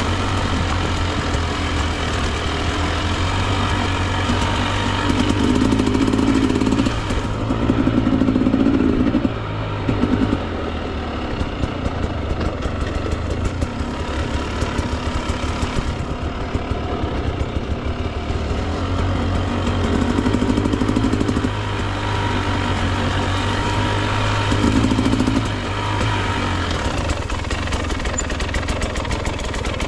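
Husqvarna TE 300 two-stroke dirt bike engine pulling at low speed on rough trail, with several short bursts of throttle a second or two long.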